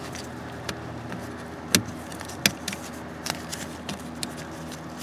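A few sharp clicks and light knocks of small parts being handled while a retainer is fitted on a pickup's shifter, over a steady low hum.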